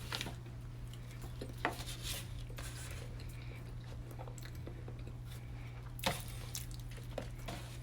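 People chewing bananas fast: faint chewing and wet mouth sounds with scattered soft clicks, one a little louder about six seconds in, over a steady low hum.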